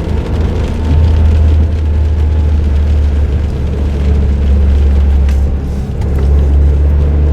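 Suzuki Jimny JB23W's small turbocharged three-cylinder engine, fitted with an aftermarket muffler, running under way with road and tyre noise: a steady low drone that eases briefly just after the start and again around six seconds in, with a few faint ticks near the end.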